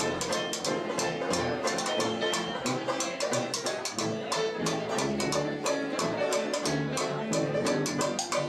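A band playing a blues song, with brass and drums and a cymbal keeping a steady beat.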